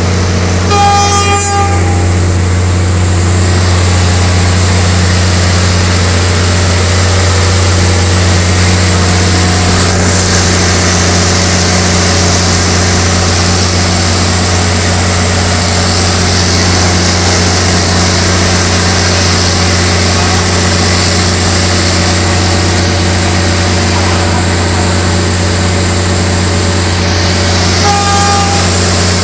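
Aboard a moving diesel passenger train: a steady low drone of the engine and running gear, with two short horn toots, one about a second in and one near the end.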